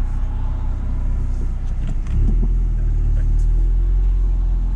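Audi S3's turbocharged four-cylinder engine running through a full Milltek exhaust, a low steady drone. A few short knocks come about two seconds in, after which the drone grows louder and heavier.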